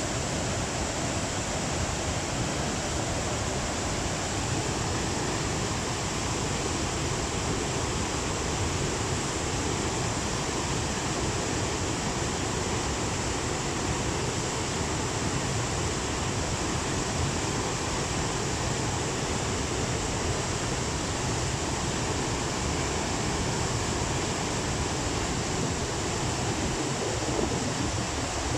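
The Tama River running high in flood after Typhoon Hagibis, its water rushing in a steady, unbroken wash of noise.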